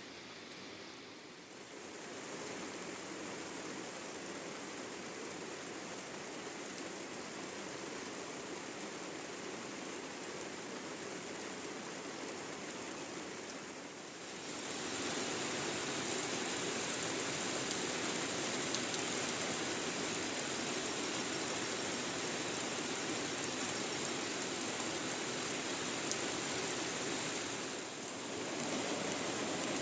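Steady outdoor water noise, an even hiss of rain or running water, that steps up in level abruptly about two seconds in and again near the middle, with a short dip near the end.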